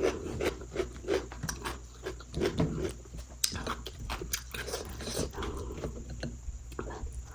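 A person chewing and biting food close to the microphone: irregular wet mouth clicks and small crunches, several a second.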